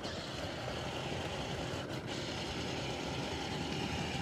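Steady rolling noise of a child's battery-powered ride-on toy truck driving along the road.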